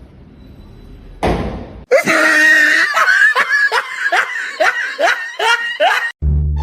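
A person laughing hard: a rapid run of about a dozen short 'ha' bursts, some three a second, starting about two seconds in after a brief rushing noise and stopping suddenly near the end.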